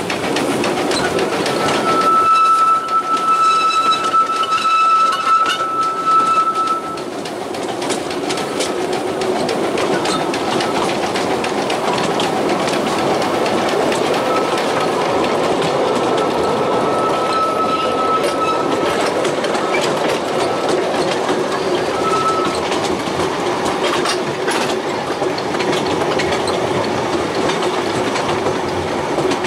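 Narrow-gauge train running: a steady rumble and clickety-clack of wheels over the rail joints. A high wheel squeal rings out from about two to seven seconds in as the carriage takes a curve, with fainter, shorter squeals later.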